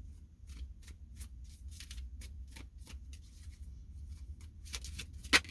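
Tarot cards being shuffled and handled: a string of light, irregular card clicks and slaps, with one sharper snap near the end.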